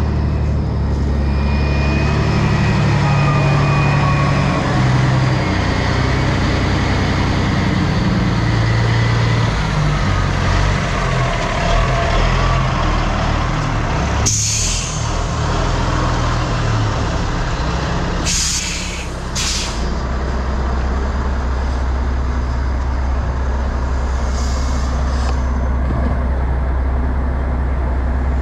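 Heavy wrecker truck's diesel engine running as the truck manoeuvres, its pitch rising and falling during the first half, then settling to a steady idle. Air brakes hiss in short bursts about halfway through, twice more a few seconds later, and faintly once more near the end.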